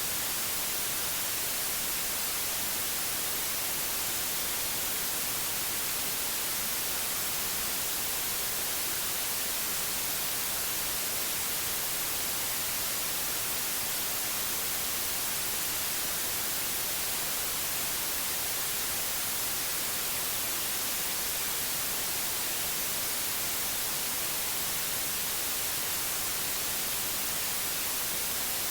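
Steady white noise: an even, unbroken hiss, brightest in the high end, with no change in level.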